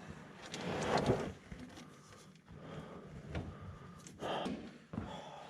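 Rustling, scraping and light knocks of a hydraulic hose being handled and worked into place on an excavator, with a few sharp clicks.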